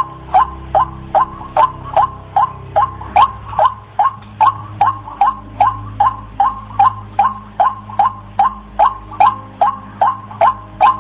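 White-breasted waterhen calling a long, even series of short notes, about two and a half a second, over a faint low hum.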